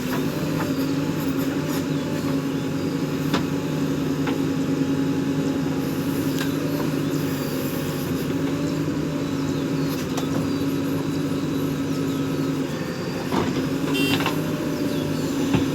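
Diesel engine of a JCB 3DX backhoe loader running steadily at a constant pitch, with a few short knocks scattered through it.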